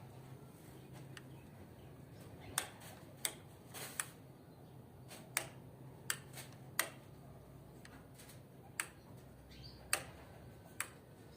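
Caged goldfinches making about a dozen sharp, irregular clicks and taps, with a faint short call about nine seconds in, over a low steady hum.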